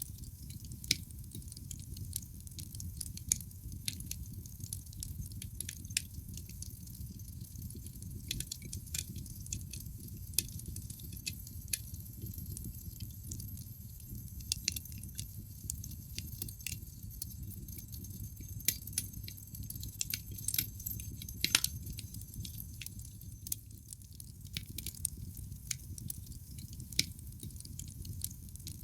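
Wood fire burning in a fireplace: logs crackling with irregular sharp pops over a steady low rumble of the flames. One pop about three-quarters of the way through is louder than the rest.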